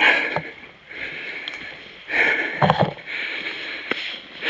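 Heavy breathing, about four long, rasping breaths, from a man struggling through knee-deep mud. A few short knocks come about two-thirds of the way through.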